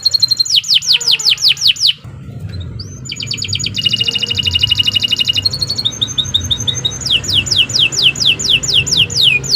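Domestic canary singing a long song of rapid trills: fast runs of falling whistled notes, a short break about two seconds in, then buzzy rapid rolls, then fast falling notes again from about seven seconds in.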